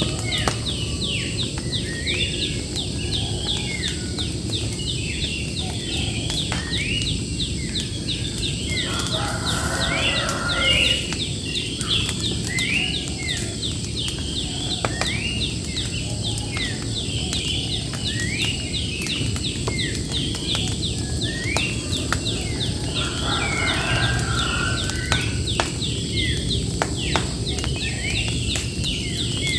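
Birds chirping busily, many short curved notes repeated several times a second, over a steady low background noise.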